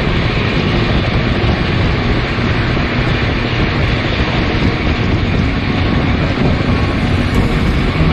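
Steady rush of wind on the microphone over the running rumble of a passenger train at speed, heard from its open doorway, while another express train runs alongside on the next track.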